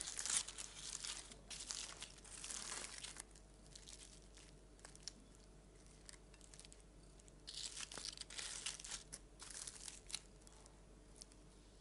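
Aluminium foil packet being cut open and unfolded, faint crinkling and tearing in two spells with a few quieter seconds between.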